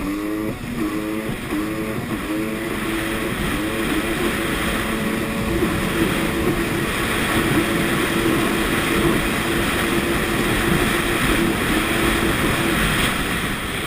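Sea-Doo jet ski engine at full throttle. Its pitch surges up and dips back several times over the first few seconds, then holds steady at top speed, around 70 mph, over a loud rush of wind and water.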